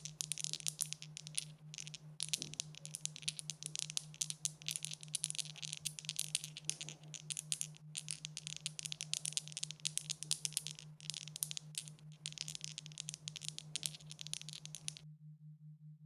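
Dice rattling and clattering in a dense run of small clicks, with short breaks, stopping abruptly about 15 seconds in. A steady low hum lies underneath.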